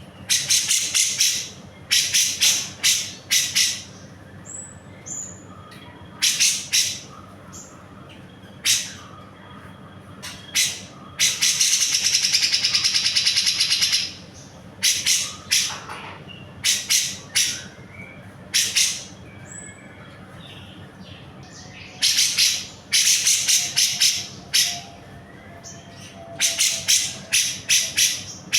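Grey-cheeked bulbul (cucak jenggot) calling vigorously in loud clusters of rapid, harsh high notes every few seconds, with one long rattling trill of about three seconds near the middle. A faint steady hum runs underneath.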